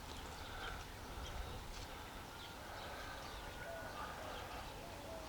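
Faint outdoor background with distant birds calling: scattered short chirps, and a few short, lower repeated calls in the second half.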